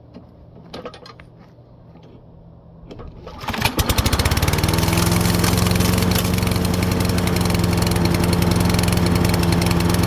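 Toro self-propelled lawn mower's small engine being pull-started: a few light handling clicks, then about three and a half seconds in it catches on the first pull and settles into a steady run. It now runs after its fully clogged carburetor was cleaned.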